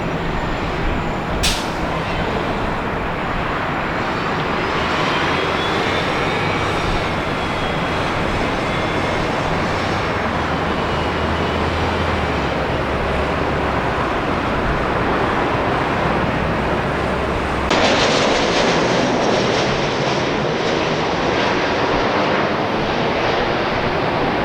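Jet airliner engines running loud and steady, with a faint whine that rises and falls in pitch. About two-thirds of the way through, the sound changes abruptly to a brighter rush.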